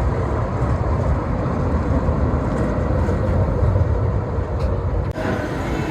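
Hong Kong Peak Tram funicular car running on its rails: a steady low rumble.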